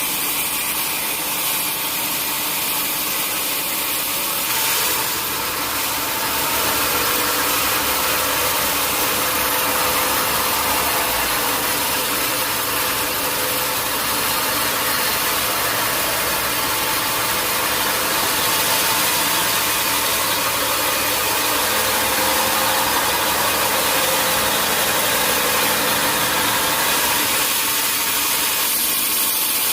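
Sawmill saw running and cutting through a mahogany log, a steady mechanical drone with a hiss of cutting. The hiss grows fuller about five seconds in and eases near the end.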